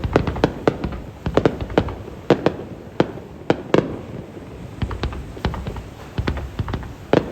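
Aerial fireworks bursting in rapid, irregular succession, several sharp bangs a second of varying loudness over a continuous low rumble.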